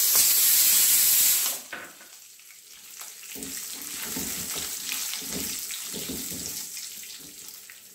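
Chopped carrots hit hot oil in a kadhai with a loud sizzling hiss that lasts about a second and a half. The frying then settles to a softer sizzle as a spatula stirs the vegetables in the pan.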